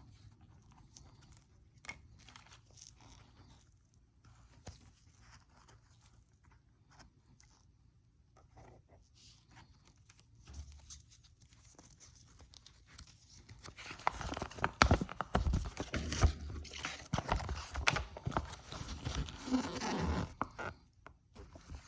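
Unboxing a folding knife: its packaging handled and opened. Scattered light taps and clicks at first, then about fourteen seconds in, some seven seconds of loud crinkling and crackling.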